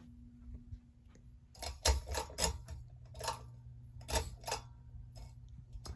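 Hunter Discovery 48-inch ceiling fan running with a low steady hum and a handful of sharp, irregular clicks in the middle. This is a fan that is noisy in operation.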